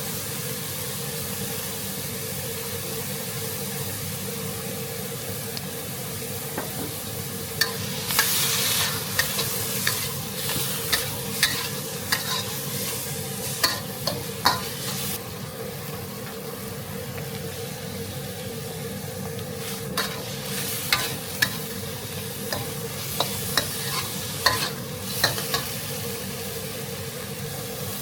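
Pork and basil stir-frying in a pan: steady sizzling, with a spatula knocking and scraping against the pan many times from about eight seconds in. A steady hum runs underneath.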